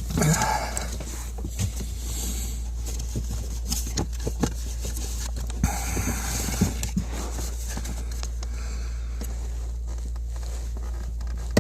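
Scattered light clicks and knocks of plastic dashboard trim and clips being worked loose by hand, over a steady low hum.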